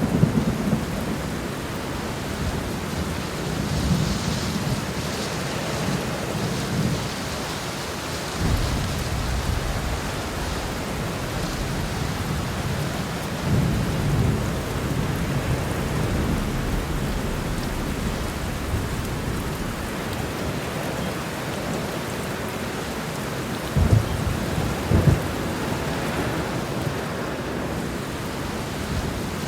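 Heavy rain pouring steadily, with thunder rumbling in low swells several times and two sharp cracks of thunder close together near the end.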